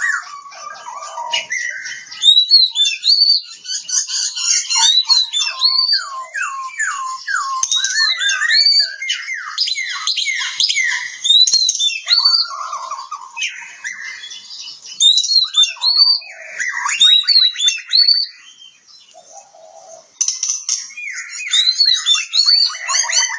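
Oriental magpie-robin (kacer) singing a long, varied song of rich whistles, quick falling slurs, upward-hooked notes and fast trills, with a short pause about three-quarters of the way through.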